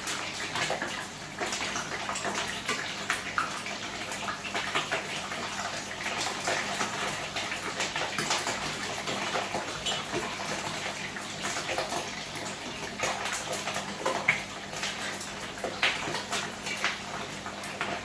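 Chicken pieces frying in very hot cooking oil in a pot: a steady sizzle with scattered crackles and pops.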